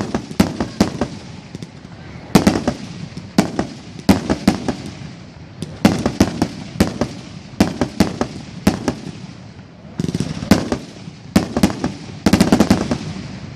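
Aerial fireworks shells bursting in a rapid barrage, sharp bangs coming every half second or so, often in quick pairs and triples, each with a short echo.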